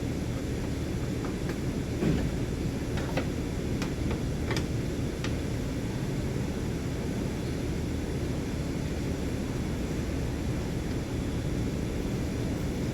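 Scattered light clicks and clinks of hand tools on engine parts over a steady low rumble, the clicks thinning out after about five seconds.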